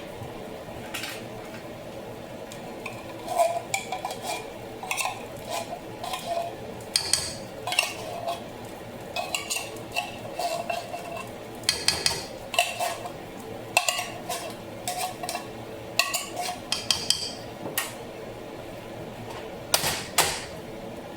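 A metal utensil scraping and clinking against a can and a pot in many irregular short strokes as condensed cream of mushroom soup is emptied out.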